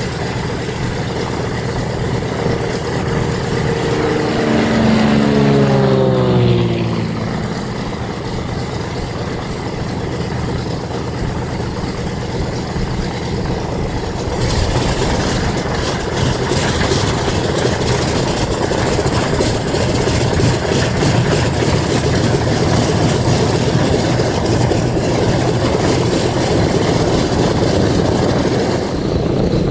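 The twin radial piston engines of a Douglas C-47 Skytrain running. About five to seven seconds in, the engine note swells and falls in pitch. From about halfway on the sound turns louder and harsher and stays steady.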